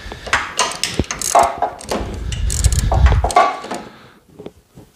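Metal clanks, clicks and knocks of hand tools and parts being handled on a snowblower, with a low rumble from about two seconds in to just past three seconds.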